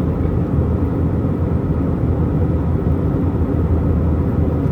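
Steady low rumble of an Airbus A319's IAE V2500 turbofan engines and rushing air, heard inside the passenger cabin in flight, with a faint steady whine above it.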